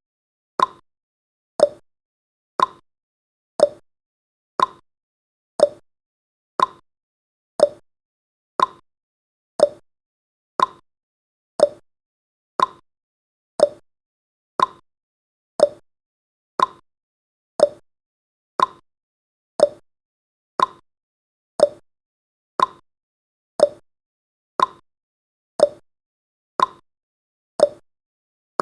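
Countdown timer's ticking sound effect: a short, sharp tick once every second, evenly paced.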